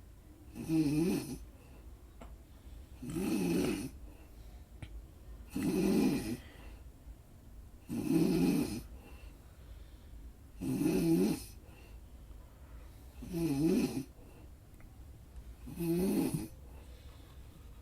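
Steady, rhythmic snoring, one snore about every two and a half seconds, seven snores in all.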